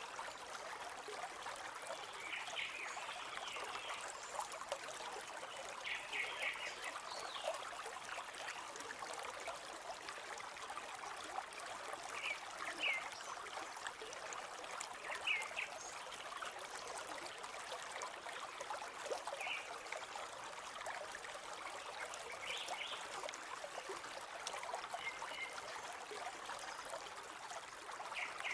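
River water flowing steadily, with short bird chirps breaking in every few seconds.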